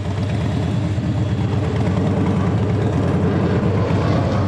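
Harley-Davidson V-twin motorcycle engine idling, a steady low pulsing beat.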